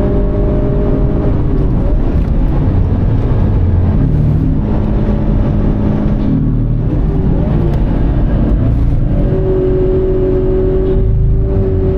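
Toyota 86 GRMN's 2.0-litre flat-four engine under hard track driving, heard from inside the cabin over tyre and road rumble. A high, steady engine note breaks about a second and a half in, the pitch shifts about through the middle, and a steady high note returns about nine seconds in.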